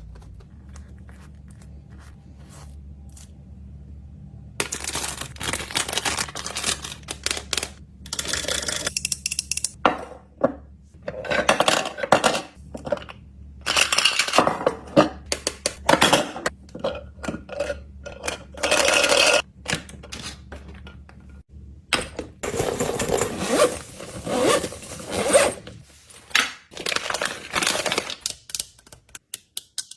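Small hard plastic fidget toys clicking, clattering and scraping as they are handled and dropped into a container, in irregular bursts, over a low steady hum.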